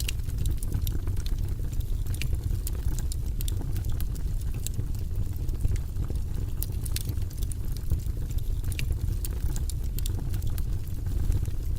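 Campfire crackling, with sharp irregular pops and snaps over a steady low rumble.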